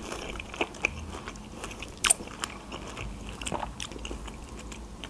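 Close-miked chewing of a mouthful of whole fresh strawberry eaten with its green top: soft, wet mouth clicks and squelches, with one sharper click about two seconds in.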